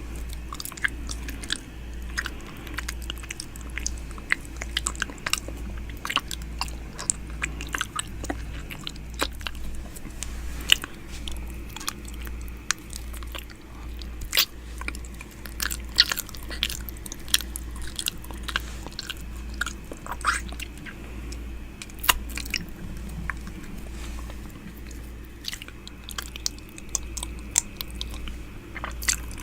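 ASMR 'ear eating' mouth sounds close to the microphone: irregular clicks and smacks of lips and tongue, several a second, with a low, regular throb underneath.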